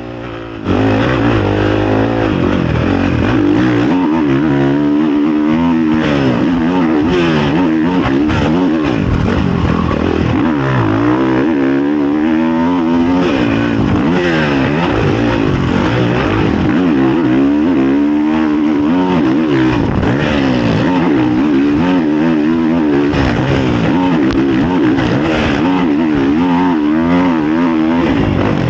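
Honda CRF450 motocross bike's single-cylinder four-stroke engine heard onboard, revving hard and falling off again and again as the rider works the throttle and shifts gears around the track.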